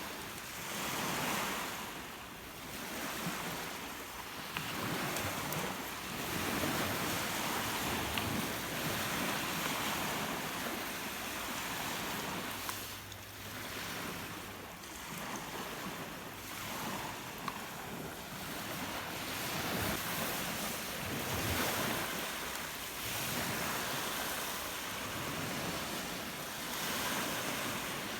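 Rough lake waves breaking and washing on the shore in surges every few seconds, with wind buffeting the microphone.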